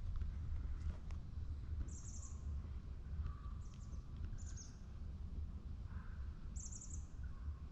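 Small birds calling: brief high chirps every second or two, mixed with a few lower notes, over a steady low rumble.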